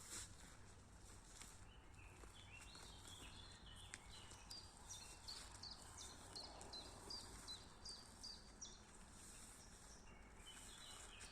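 Faint songbird singing a run of short high chirping notes, about two a second, with another brief phrase near the end, over a low steady background rumble.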